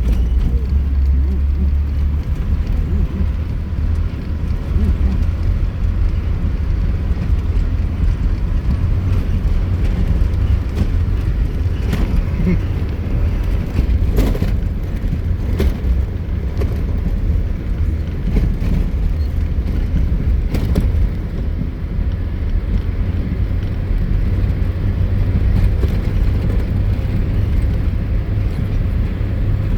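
A vehicle driving off-road over rough grassland track: a steady low rumble, with a few sharp knocks and rattles in the middle stretch.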